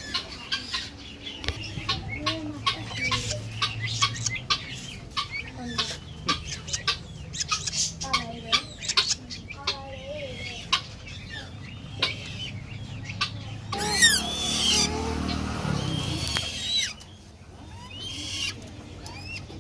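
A shop full of caged small birds chirping and calling, many quick sharp chirps one after another, over a low steady hum. About fourteen seconds in, a louder rushing noise lasts roughly three seconds and then drops away.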